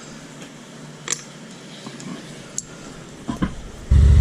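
A few light clicks and clacks in a quiet room, then near the end a motorcycle's V-twin engine cuts in suddenly, loud and running steadily.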